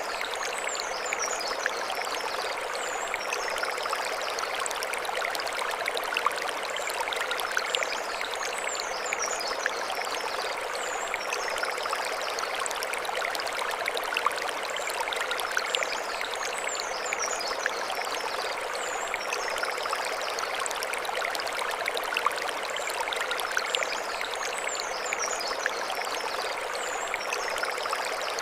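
Mountain stream running steadily over stones, an even rushing and splashing. High, short chirping calls recur in little groups every few seconds above the water.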